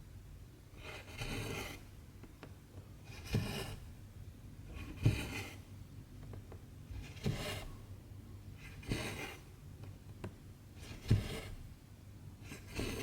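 Cotton embroidery thread being pulled through 14-count stamped cross-stitch fabric, stitch after stitch. Each stitch is a soft tap of the needle followed by a short rasping swish, repeating about every two seconds, seven times.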